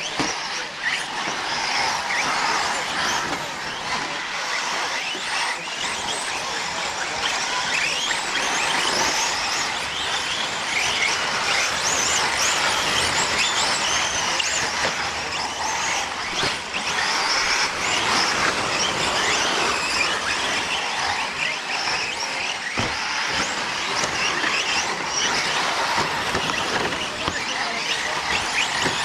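Pack of electric radio-controlled 4WD short course trucks racing on a dirt track: many high motor whines rising and falling as they accelerate and brake, over a steady wash of tyre and dirt noise.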